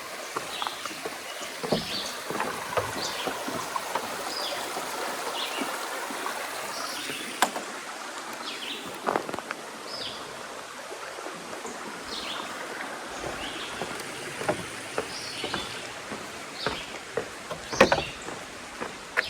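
Footsteps of a hiker walking a wet trail in the rain, with a steady hiss of rain and water and a few sharper clicks and knocks along the way.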